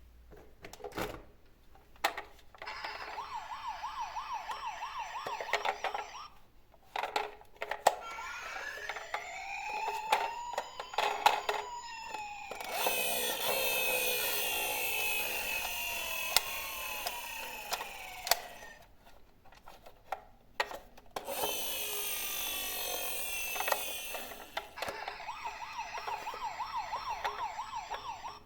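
Battery-powered toy garbage trucks playing their electronic sound effects through a small speaker: a fast warbling tone, slow siren-like rising and falling glides, and two hissy stretches, with sharp clicks from the toys' buttons and mechanisms in between.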